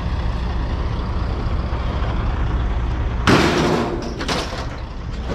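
A vehicle engine idling steadily underneath, and about three seconds in a loud, short clatter of scrap being thrown down, followed by a few smaller knocks.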